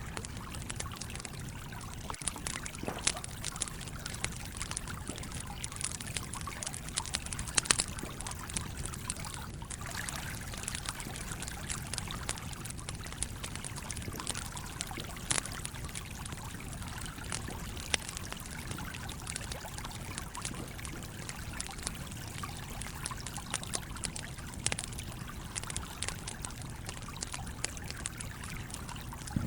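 Stream water flowing and trickling steadily, with a wood campfire crackling over it in frequent sharp pops, the loudest a few about seven and a half seconds in.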